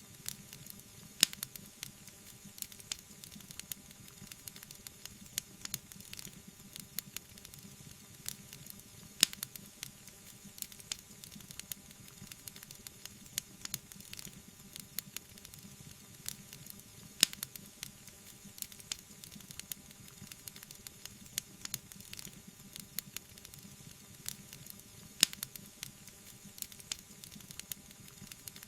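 Wood fire burning with a steady soft hiss and continual small crackles, broken by four louder pops spaced evenly about eight seconds apart.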